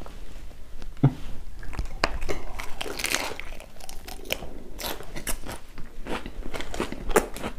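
Crunchy biting and chewing of a raw leaf wrap filled with singju, a Manipuri herb salad, close to a clip-on microphone: irregular crisp crunches.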